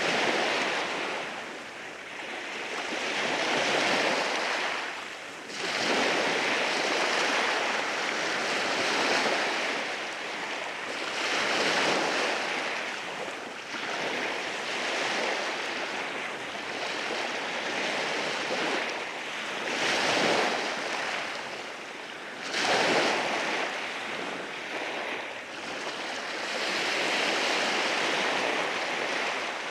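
Waves washing in over a rocky shore, a steady rushing hiss that swells and ebbs every few seconds, with sharper surges as waves break about five seconds in and again about twenty-two seconds in.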